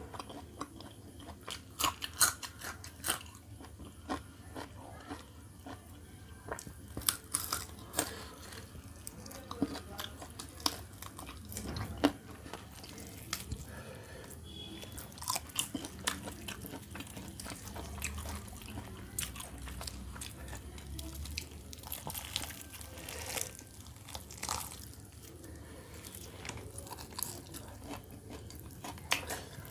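Close-up eating of a whole roast chicken: chewing and biting, with crisp skin crunching and meat being torn off by hand, heard as irregular sharp crackles and clicks.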